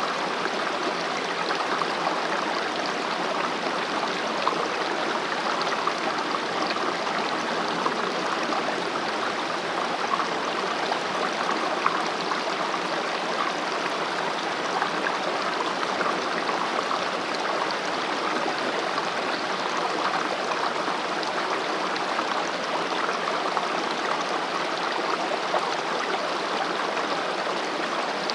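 Mountain valley stream flowing over rocks: a steady rushing and babbling of water with small splashes, unchanging throughout.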